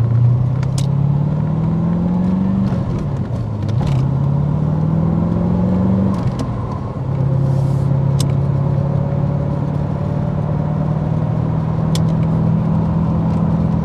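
Twin-turbo Callaway C4 Corvette V8 accelerating on the road: the engine note rises through a gear, drops sharply at a shift about two and a half seconds in, rises again and drops at a second shift about six seconds in, then settles into a steady cruise.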